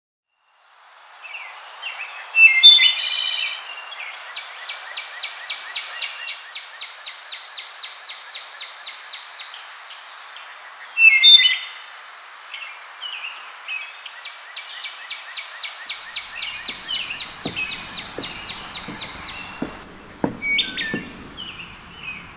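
Small birds chirping and trilling in quick runs of notes over a steady outdoor hiss, with two loud bursts of chirps about two and a half and eleven seconds in. Low knocks come in over the last few seconds.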